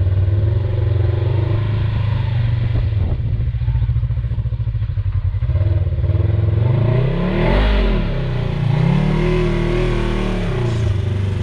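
Side-by-side UTV engine running steadily, then revved up and back down twice in quick succession.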